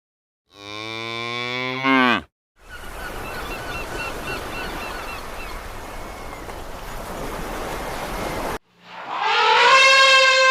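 A cow moos once, a low call that falls in pitch. A stretch of hiss-like background with faint chirps follows. Near the end a loud, steady, horn-like animal call begins.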